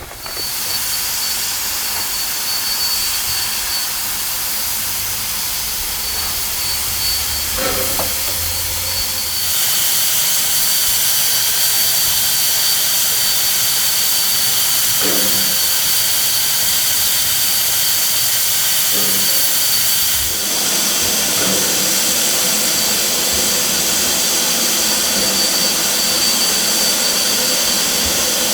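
Steam locomotive venting steam: a loud, steady hiss with a thin high whistling tone running through it, growing louder about ten seconds in.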